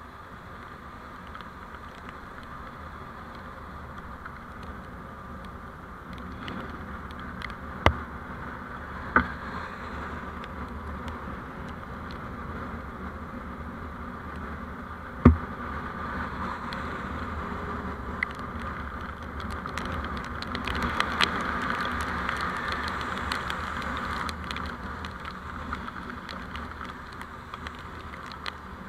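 Steady road and engine noise of a vehicle on the move, picked up by a dashcam, swelling louder about two-thirds of the way through. Three sharp knocks cut through it, the loudest about halfway.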